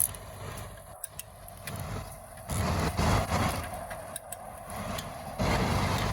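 Highway traffic going by: a low vehicle rumble that swells about two and a half seconds in and again near the end as vehicles pass.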